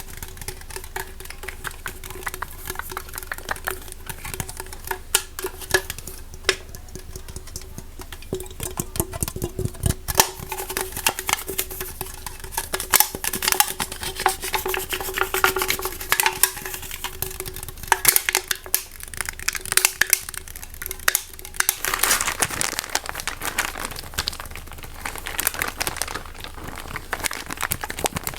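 Rapid, irregular tapping, clicking and scratching of objects handled close to the microphone as ASMR triggers, with a faint steady hum under the first two-thirds.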